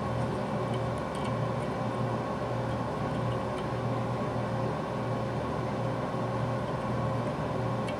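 Electric soldering gun humming steadily while a motor wire is being soldered, its low transformer hum swelling and easing as it is worked.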